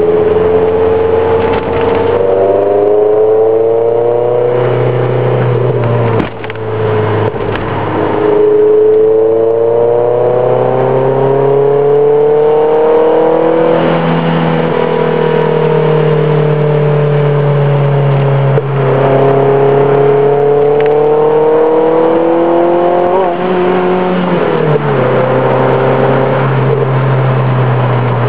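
2001 MGF 1.8i's four-cylinder K-series engine through a Mike Satur Daytona sports exhaust, pulling through the gears. The pitch climbs steadily over several seconds and drops at each gear change, several times.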